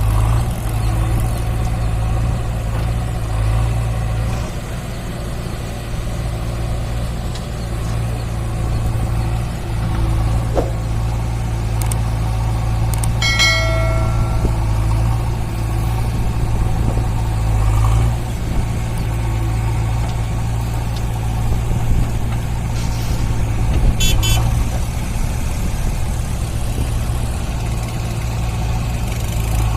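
Diesel engine of heavy machinery running steadily with a deep, even drone. About 13 seconds in there is a brief horn-like tone, and about 24 seconds in a short high squeak.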